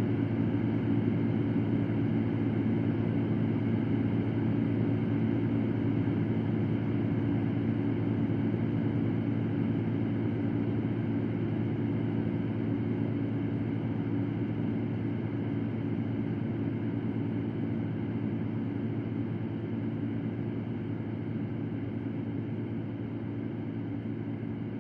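Electric fan running steadily: an even, low whooshing hum with a light hiss above it, easing slightly quieter near the end.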